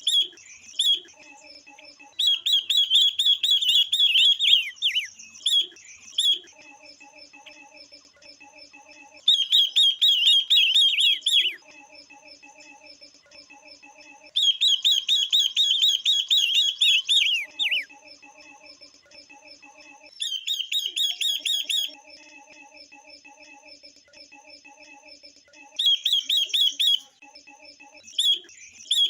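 Female silver-eared mesias and female red-billed leiothrix calling: loud bursts of rapid chirping trills, each two to three seconds long, come five times over softer steady chirping. These are female calls of the kind kept to excite males.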